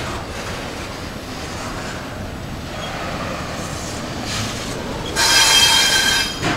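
Double-stack intermodal freight cars rolling past close by with a steady rumble and rattle of steel wheels on rail. About five seconds in, a loud, high metallic wheel squeal rings out for about a second.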